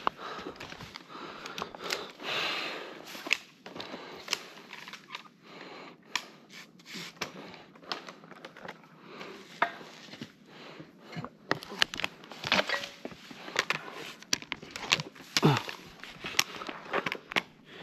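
Irregular sharp snaps and cracks with rustling of pine branches as branches are cut and pulled out during form pruning.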